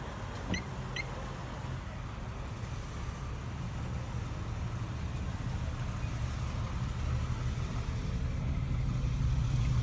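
Harley-Davidson FXDR 114's Milwaukee-Eight 114 V-twin engine running with a steady low rumble that grows gradually louder.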